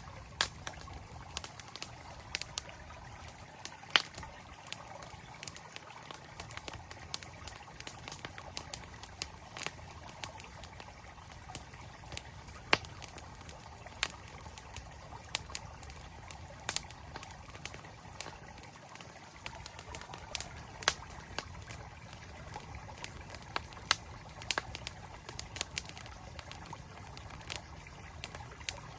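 Campfire wood crackling and popping in sharp, irregular snaps, over the steady rush of a flowing mountain stream.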